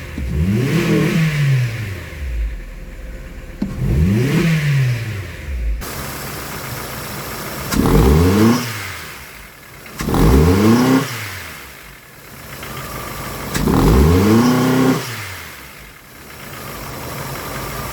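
Honda Civic engine at idle, snapped with the throttle five times, each rev rising quickly and falling back to idle. It revs up freely with its new catalytic converter in place of the clogged one.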